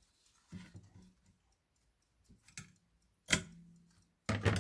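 Light taps and clicks of craft supplies being handled on a work table. Two sharper knocks come in the last second and a half, each followed by a faint low hum.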